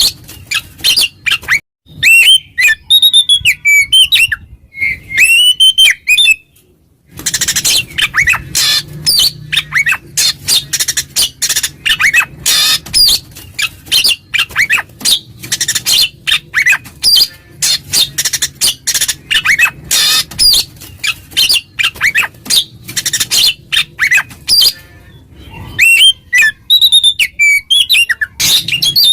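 Oriental magpie-robin (kacer) singing loudly in full 'ngeplong' song: fast runs of harsh, scratchy chattering notes mixed with clear rising and falling whistles, with a short pause about six seconds in. It is a challenge song that calls out rival birds.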